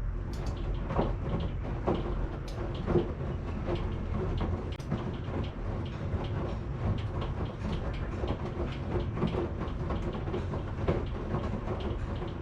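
Washing machine running, a steady low hum under frequent irregular clicks and knocks from the turning drum.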